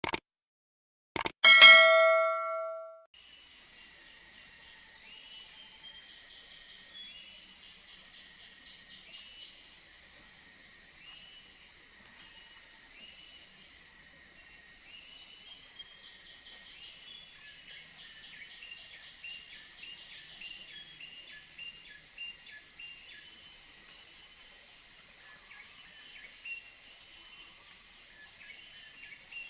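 A couple of clicks and a single bell-like metallic ding that rings out and fades within about two seconds. Then a steady tropical forest insect chorus takes over: a high continuous buzz with repeated short chirping calls.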